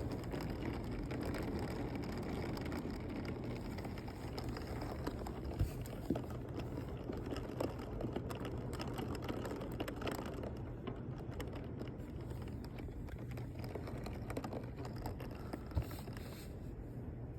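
Heavy rain falling steadily, a constant hiss dotted with many small drop ticks and a few sharper, louder hits.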